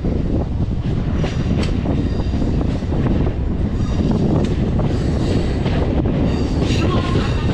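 Hyderabad MMTS suburban electric train running between stations, heard from on board: a steady loud rumble with irregular clicks of the wheels over rail joints and a few brief high wheel squeals.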